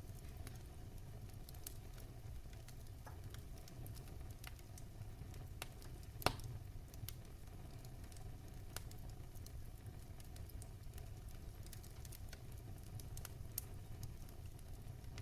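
Wood fire in a fireplace crackling, with scattered small snaps over a steady low rumble and one louder pop about six seconds in.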